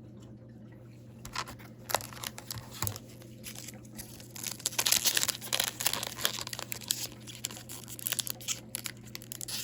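A foil Upper Deck hockey card pack wrapper being crinkled and torn open by hand. It crackles and rips in irregular bursts, starting after a quiet first second and densest about halfway through.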